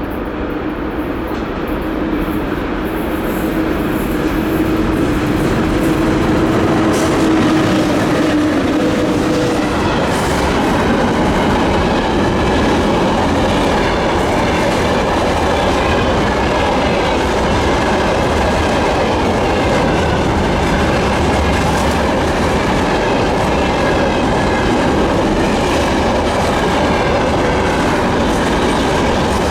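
A VL80S electric locomotive with a freight train passes close by. A steady hum grows louder over the first few seconds and fades out about ten seconds in, then the freight wagons roll past with steadily clattering wheels.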